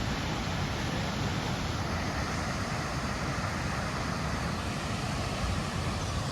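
Low Force waterfall on the River Tees: a steady rush of water pouring over the falls, an even noise without breaks.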